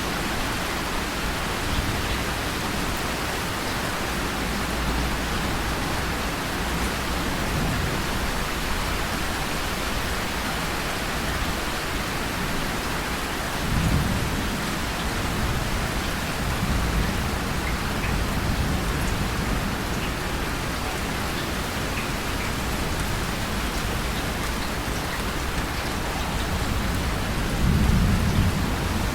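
Steady rain with low rolls of thunder, one about halfway through and a louder one near the end.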